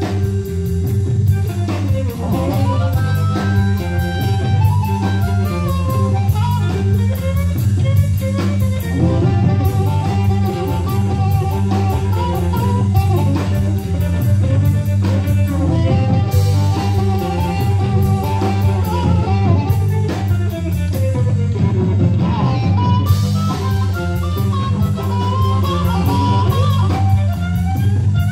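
Live band playing an instrumental blues-rock passage: guitar lines with a few sliding bends over bass and drum kit, with steady cymbal strokes.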